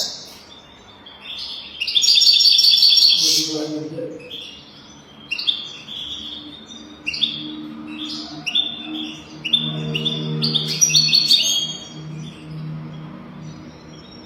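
European goldfinch singing: a run of quick twittering phrases, with a loud trilled burst about two to three and a half seconds in.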